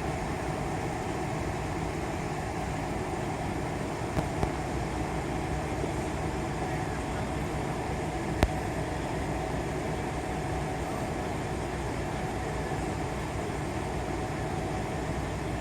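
Steady rumble of idling truck engines, with two light ticks about four seconds in and a single sharp click a few seconds later.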